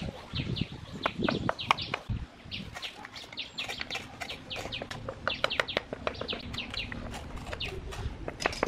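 Small birds chirping in quick runs of short falling notes, with a few sharp taps mixed in, most of them in the first two seconds and one near the end.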